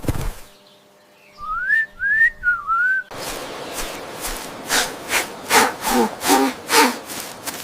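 A short whistled phrase of four quick gliding notes. It is followed, about three seconds in, by a rustling stretch with a run of sharp knocks.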